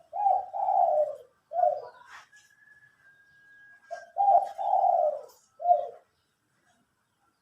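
A dove cooing in two repeated phrases, each a short coo, two longer rolling coos and a final short coo after a brief pause. A faint thin steady whistle sounds between the two phrases.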